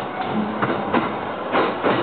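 Electric commuter train running along the line, heard from inside the passenger car: a steady rumble of the running train with several wheel clacks over rail joints.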